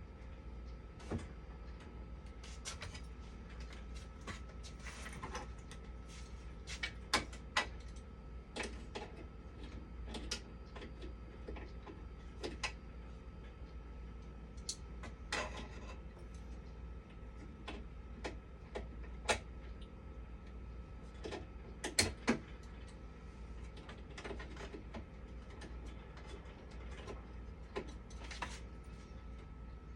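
Scattered small clicks, taps and knocks of hands and tools working on parts of a dialysis machine during a power supply replacement, a few sharper knocks among them, over a steady low hum.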